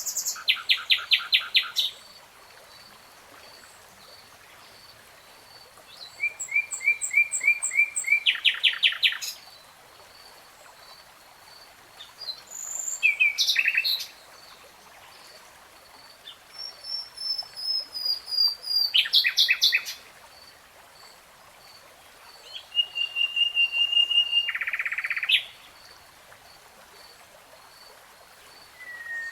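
Common nightingale singing: five separate phrases of rapidly repeated notes and trills, each one to three seconds long, with pauses of a few seconds between them. A faint high note repeats about once a second underneath.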